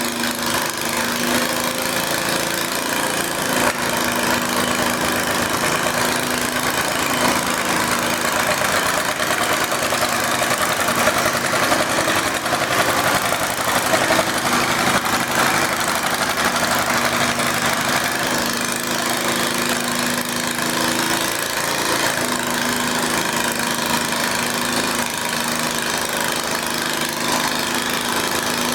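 Garden tractor engine running, with its pitch stepping up and down a few times.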